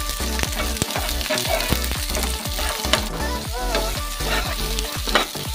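Sliced onions, shallots and garlic sizzling in hot oil in a wok while a spatula stirs and scrapes them. Background music with deep bass notes that slide downward plays throughout.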